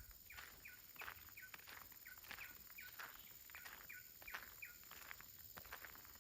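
Faint outdoor ambience: a bird calling over and over in short chirps that each drop in pitch, about two a second, over the soft, regular footsteps of someone walking on a path.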